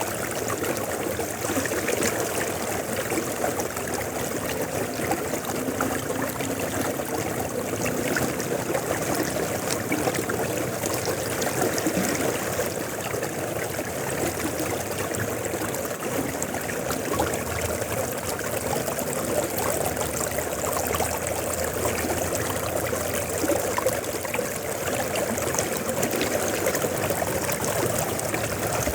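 River water flowing steadily over stones, a constant rushing with a busy trickling, splashing texture.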